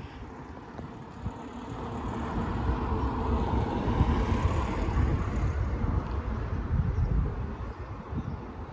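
A vehicle passing close by: a low rumble and rushing noise that builds over the first couple of seconds, holds for a few seconds and eases off near the end.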